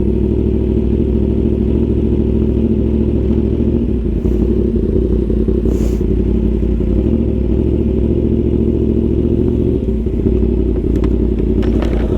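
Yamaha R1 sport bike's inline-four engine running steadily at low revs, its pitch holding level with no revving.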